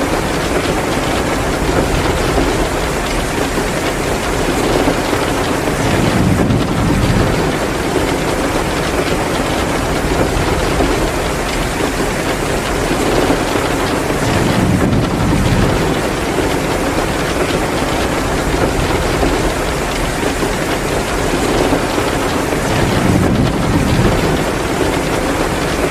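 Heavy, steady rain pouring down, swelling slightly every eight or nine seconds.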